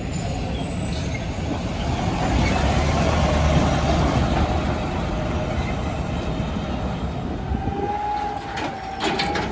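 Heavy garbage truck running with its diesel engine at a low hum and a thin wavering whine over it, with sharp clicking and clattering starting near the end.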